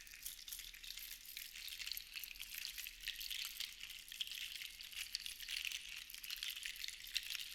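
Seashells rattling against one another in a steady, dense patter of tiny high-pitched clicks, with no beat.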